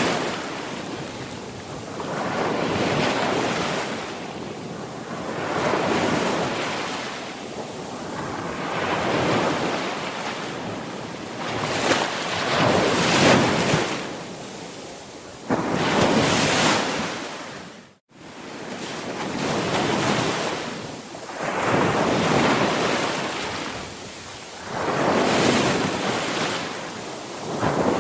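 Sea waves breaking and washing up the shore, swelling and fading about every three seconds. The sound cuts out for an instant about eighteen seconds in, then resumes.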